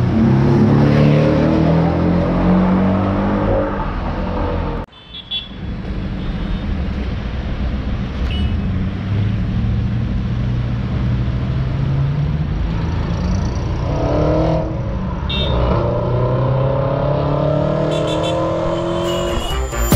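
Sports car engines accelerating in traffic, their pitch climbing in steps through gear changes. The sound breaks off abruptly about five seconds in, then another car pulls away, revving up several times later on.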